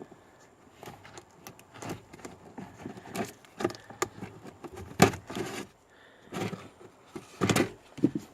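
Old cabin air filter being worked out of its plastic housing behind the glove box: irregular scraping, rustling and sharp plastic clicks and knocks, loudest about five seconds in and again near the end.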